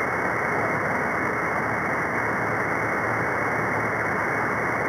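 Radio receiver static: a steady, even hiss from an open channel on the 11-metre free band above CB channel 40 while no station is transmitting.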